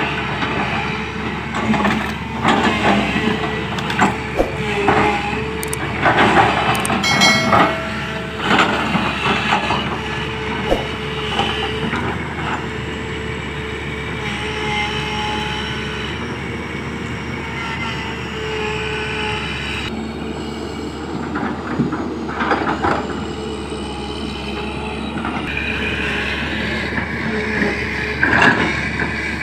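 Komatsu PC200 excavator at work: its diesel engine runs steadily under metal clanks and knocks, with a brief squeal, the clanks busiest in the first ten seconds or so.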